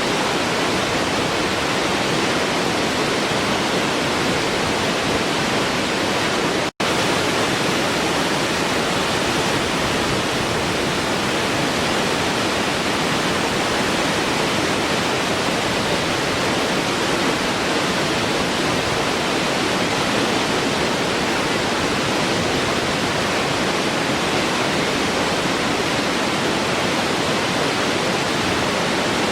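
Waterfall rushing in a steady, even roar of falling water, with a split-second dropout about seven seconds in.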